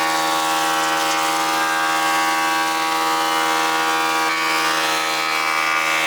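Electric planer-thicknesser running with a board feeding through the cutters, a loud steady pitched machine tone.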